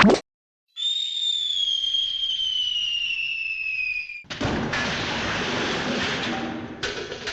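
Cartoon falling-whistle sound effect: one long whistle sliding slowly down in pitch for about three seconds. It is cut off by a loud crash-like burst of noise that runs on for about three seconds.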